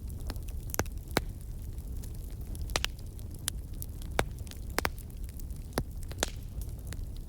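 Wood fire crackling in a fireplace: scattered sharp pops and snaps at irregular intervals over a low steady rumble of the flames.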